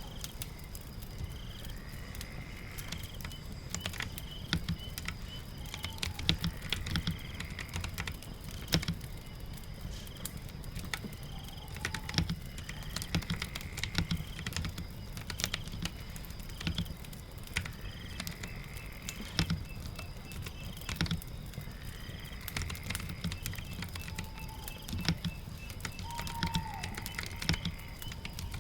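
Irregular clicking of a computer keyboard being typed on, over a steady bed of rain and crackling fire. Faint short gliding calls come and go every few seconds.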